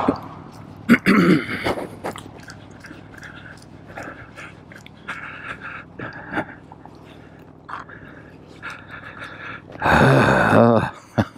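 Heavy breathing close to the microphone, with scattered clicks and scuffs, and a loud, brief vocal sound about a second in and again near the end.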